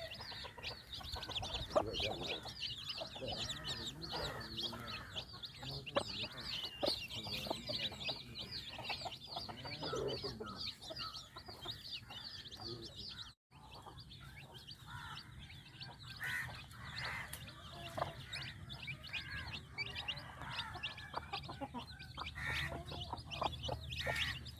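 A mother hen clucking while her chicks peep rapidly and continuously. The high peeping is dense at first and thins out after a brief break in the sound about halfway through.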